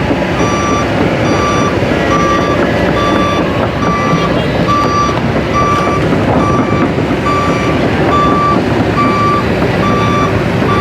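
A heavy vehicle's reversing alarm beeping steadily, about one beep every three-quarters of a second. It sounds over the rumble of heavy engines and traffic.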